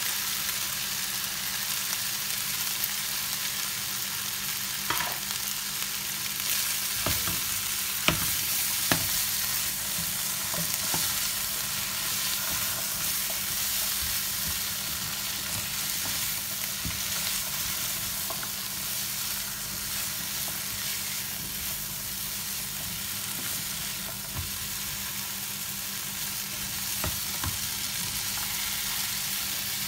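Diced potatoes, carrots and chicken sausage sizzling in oil in a ceramic-coated pot as they are stirred with a silicone spatula, with a few light knocks of the spatula against the pot.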